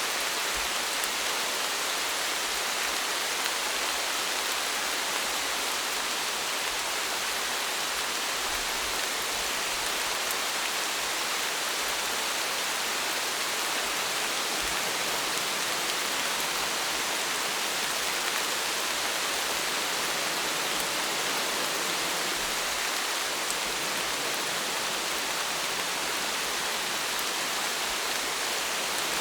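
Steady rain falling, a continuous even hiss of many drops with no single drops standing out.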